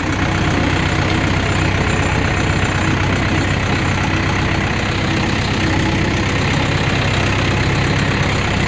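Tractor engine running steadily while the tractor drives slowly along a rough bush trail.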